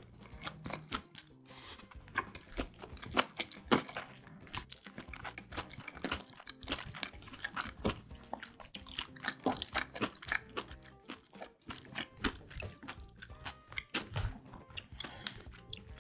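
Close-miked chewing of a mouthful of kimbap: a steady run of short clicks and smacks from the mouth, over soft background music.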